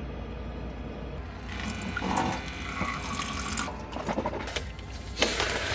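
Water running and splashing in uneven spells over a steady low hum.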